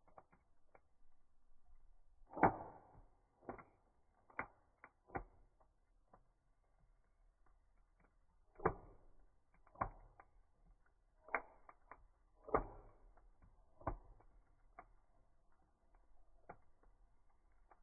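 Burning firewood in a campfire crackling, with irregular sharp pops and snaps, about a dozen over the stretch, some much louder than others.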